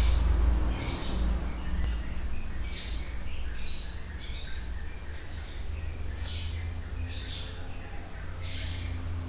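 Birds chirping: short, high calls repeating about once or twice a second over a steady low hum.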